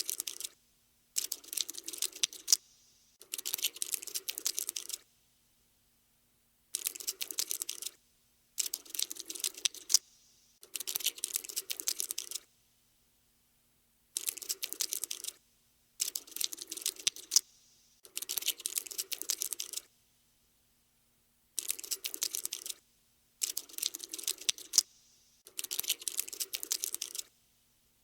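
Cockroach scuttling sound effect: bursts of rapid dry clicking, each one to two seconds long, separated by short pauses.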